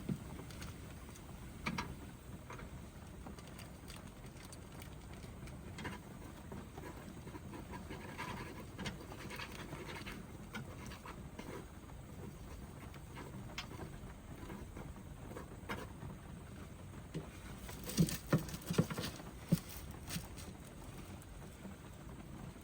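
Steady rain pattering on a van's roof, heard from inside, with scattered small clicks and knocks and a short run of sharper knocks about eighteen seconds in.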